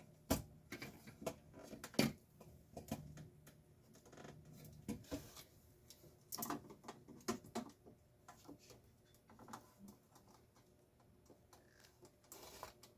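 Faint, irregular clicks and taps of tools and parts being handled while a garage door opener is taken apart, with a few sharper knocks now and then.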